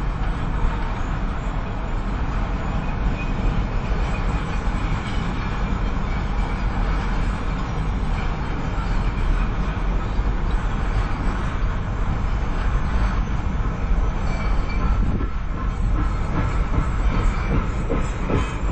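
Indian Railways freight train of open-top box wagons rolling past close by: a steady rumble and clatter of steel wheels on the rails. Rhythmic clicks of wheels crossing rail joints stand out near the end.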